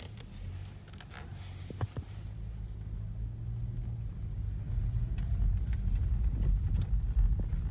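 A car's low rumble that builds steadily louder, with a few short knocks in the first two seconds. It is presented as the noise of a worm-shaft (trục vít) assembly.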